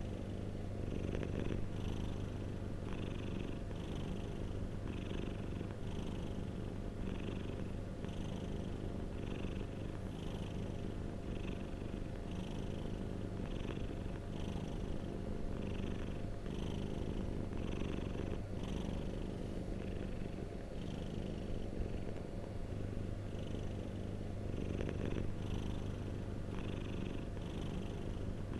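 Domestic cat purring steadily, a continuous low rumble that pulses evenly.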